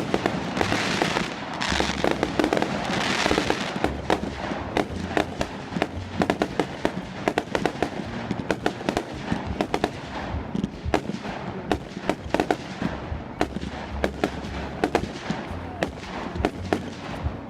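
Fireworks going off in a dense barrage: rapid crackling pops one after another over a hiss of burning effects, with low booms beneath.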